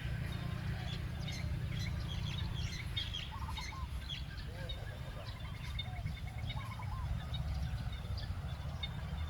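Several birds chirping and calling, with short repeated trills and quick notes, over a steady low rumble.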